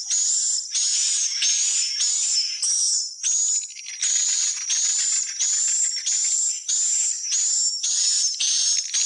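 Swiftlets calling: an unbroken run of high, buzzy chirps, about two a second, each topped by a thin whistled note.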